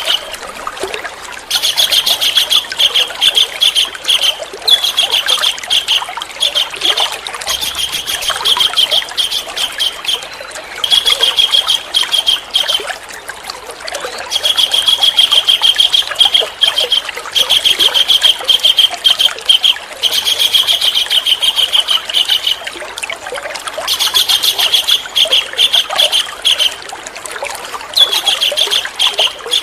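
A bird trilling in repeated high, fast bouts, each a couple of seconds long with short pauses between, over a steady trickle of running water.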